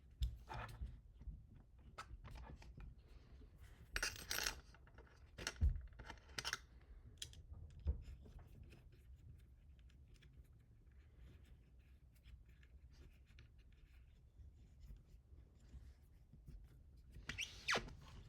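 Hand assembly work on a bench: small parts and tools handled, with scattered light clicks and taps, a few sharper knocks, and brief scraping rustles about four seconds in and near the end.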